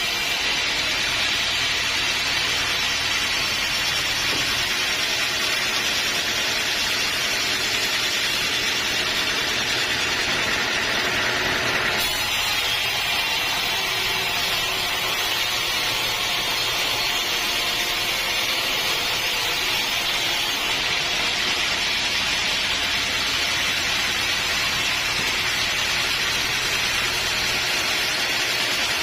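Sawmill saw running steadily through a teak log, a continuous hissing cut over the hum of its motor. The sound shifts slightly about twelve seconds in.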